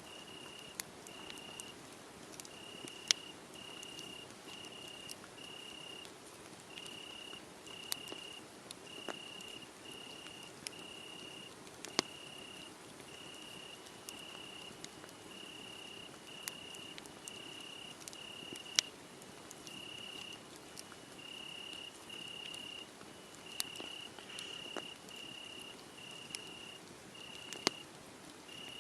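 Crickets chirping in short, evenly spaced high-pitched pulses, a little over one a second, with a wood fire's sharp crackles and pops scattered through, a few of them loud.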